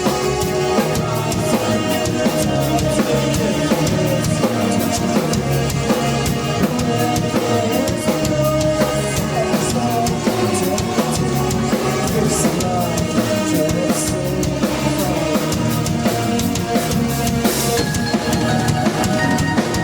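Live band playing loudly: a drum kit with bass drum and snare keeping a steady beat under bass and sustained chords from other instruments.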